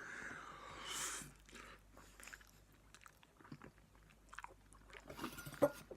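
A person eating instant noodles: a brief noisy slurp at the start, then soft chewing with small mouth clicks, a few sharper clicks near the end.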